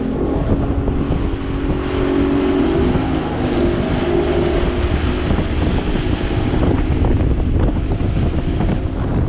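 Bass boat's outboard motor picking up speed, its pitch climbing over the first few seconds, then running steadily at speed with heavy wind on the microphone.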